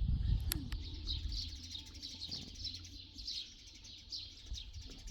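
Small birds chirping in quick, repeated high notes, over a low rumble that fades during the first couple of seconds.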